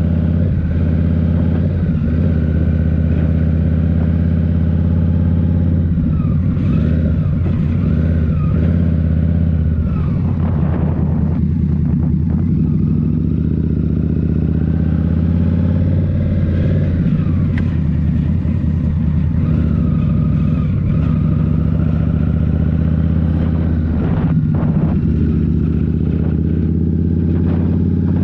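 Indian Scout Rogue's liquid-cooled 1133 cc V-twin running through a Rinehart slip-on exhaust as the motorcycle rides along. The engine note is steady, with its pitch rising and falling a little with the throttle, and a few brief clicks mixed in.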